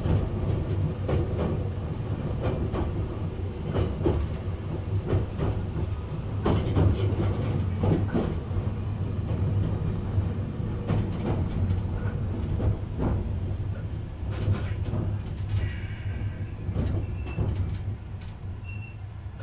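Nagano Electric Railway limited express train running on the line: a steady low rumble with wheels clicking and knocking over rail joints at irregular intervals. A few faint high-pitched tones come in near the end as the running sound eases slightly.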